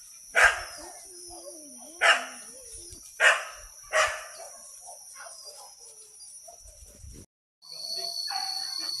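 A hunting dog barking: four sharp barks in the first half, unevenly spaced, over a steady high hum of insects.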